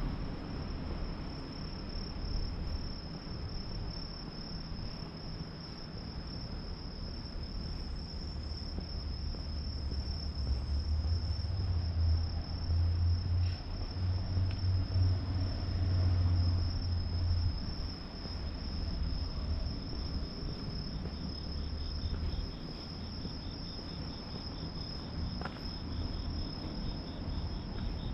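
Crickets or other singing insects trilling steadily in one unbroken high note. A low rumble swells under it in the middle.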